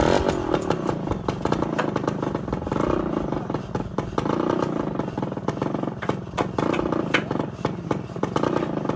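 A small engine running, its pitch swelling and easing every second or so, with many sharp knocks and clattering over it.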